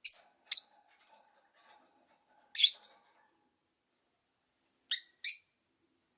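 Rosy-faced lovebirds giving short, shrill chirps: five sharp calls, a quick pair at the start, one in the middle and another quick pair near the end.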